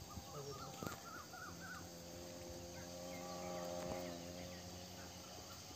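Faint outdoor ambience: a bird gives a quick series of short chirping notes in the first second and a half. A steady low drone follows and fades away about a second before the end.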